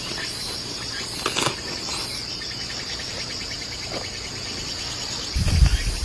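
Steady high-pitched drone of insects, with a few light clicks or crackles. Near the end a loud low rumble comes in.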